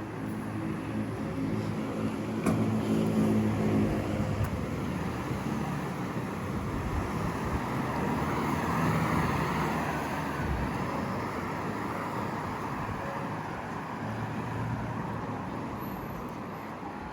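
Street traffic: a car engine running close by in the first few seconds, then a vehicle passing that swells to its loudest about nine seconds in and slowly fades.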